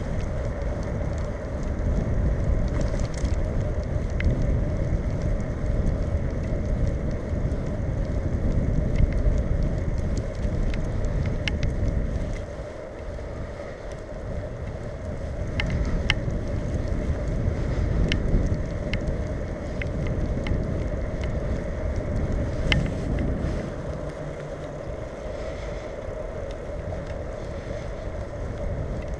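Wind buffeting the microphone of a bicycle-mounted camera while riding, rising and easing with the bike's speed, over the steady rolling noise of the bicycle and scattered small clicks and rattles.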